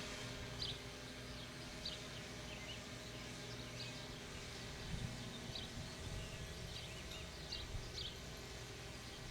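Small birds chirping, short high calls about once a second, over a faint steady low hum.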